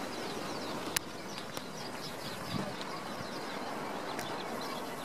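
Small birds chirping in quick, repeated short notes over a steady background hiss, with one sharp click about a second in.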